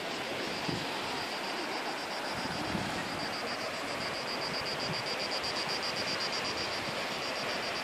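Cicadas singing: a rapid, evenly pulsed high buzz that grows stronger about three seconds in, over a steady rushing background noise.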